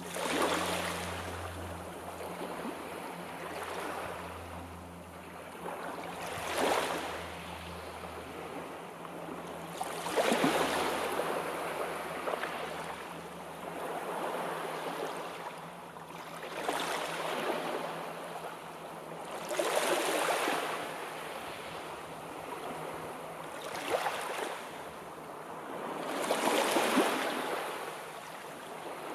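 Sea waves washing in one after another, each surge swelling and falling away every few seconds over a steady background rush.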